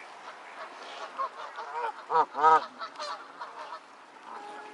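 A flock of waterfowl calling: many overlapping short calls, with two loud honks close together about two seconds in.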